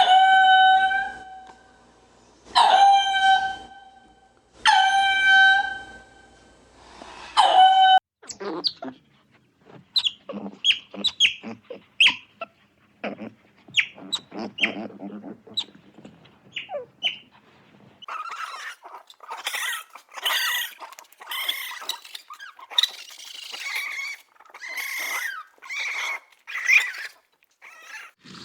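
Animal calls in three back-to-back clips. First come four long, pitched howling calls, each about a second and a half. Then comes a run of short chirps and clicks, and after that a stretch of rapid high-pitched squeaky chirps.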